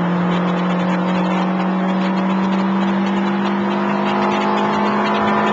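Fiat Grande Punto's 1.4 StarJet four-cylinder petrol engine heard from inside the cabin at high revs under acceleration. The engine note climbs slowly and steadily in one gear, with no gear change, over tyre and wind noise.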